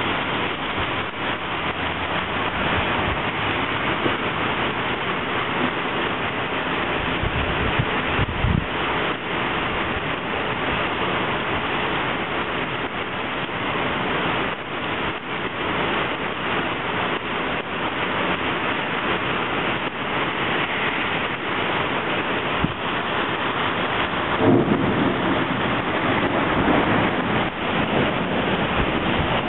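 Heavy rain pouring onto a flooded street and pavement, a loud steady hiss. Low rumbles break through about eight seconds in and again near the end.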